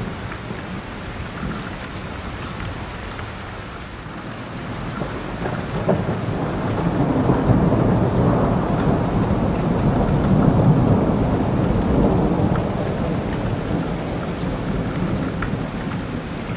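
Steady rain with a low rumble of thunder that swells about five seconds in, peaks around ten seconds and slowly fades.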